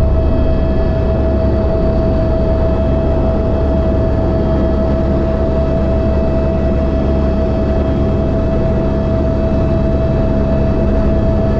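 Tour helicopter heard from inside the cabin: a steady low drone with an unchanging whine over it.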